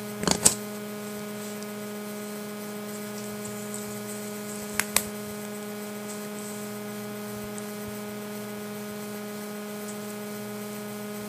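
Steady electrical mains hum, with two brief pairs of sharp clicks, one just after the start and one about five seconds in.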